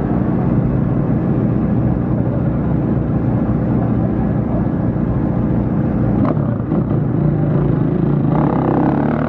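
Off-road racing engines running steadily, a continuous engine drone with a sharp click about six seconds in. Near the end, tones that rise and fall come in over it.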